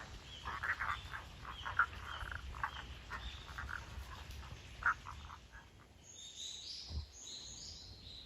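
Frogs calling in a chorus of short, rapid croaks for the first five and a half seconds or so, then a small bird singing a few high notes near the end.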